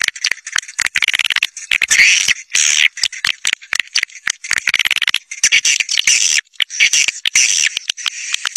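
Swiftlet lure call: rapid, overlapping high chirps and twitters of swiftlets, broken by short gaps. This is the caller sound played to draw a flock of swiftlets in to nest.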